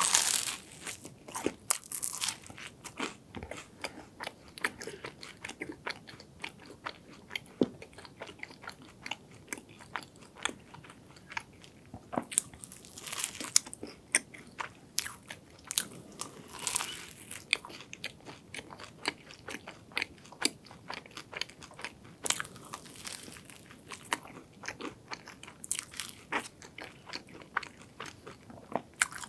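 Close-miked biting and chewing of a crisp croffle (croissant waffle) topped with cream and chopped walnuts and cashews. A loud crunch comes at the first bite, then steady crackly chewing with mouth clicks, and a few louder crunches along the way.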